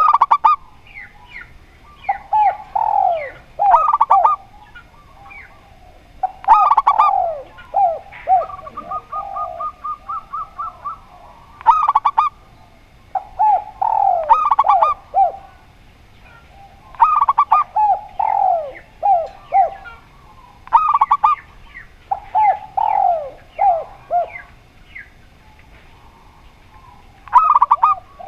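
Spotted dove and zebra dove cooing, phrases of falling notes repeated every few seconds, with a quick even run of short notes about eight seconds in.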